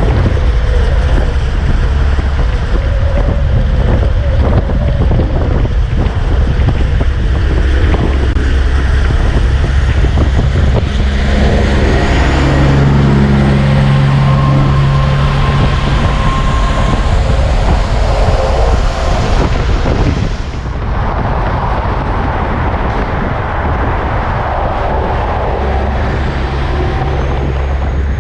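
Roadside highway traffic: passing trucks and vehicles rumble steadily, with wind noise on the microphone. A steady engine tone stands out for a few seconds about halfway through, and the sound changes abruptly about twenty seconds in.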